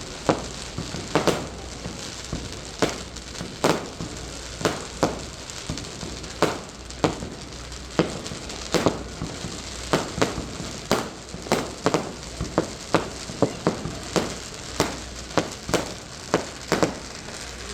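Fireworks crackling and popping: a steady run of sharp, irregular cracks, a few a second, over a continuous hiss.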